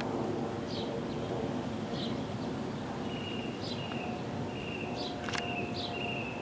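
Outdoor ambience: birds calling in short repeated high notes about once a second, joined about halfway through by a flatter, longer repeated call, over a steady low background rumble.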